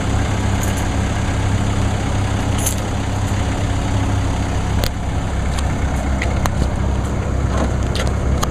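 Four-cylinder turbodiesel of a 2014 Mercedes-Benz GLK 250 BlueTec idling steadily at its raised fast idle just after a cold start in freezing weather, with a few light clicks scattered over it.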